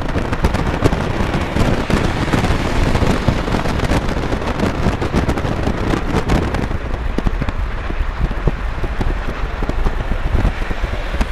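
Freight train of autorack cars rolling past close by: a loud, steady rush with low rumble and dense irregular clicking and rattling. The hiss thins out about two-thirds of the way through.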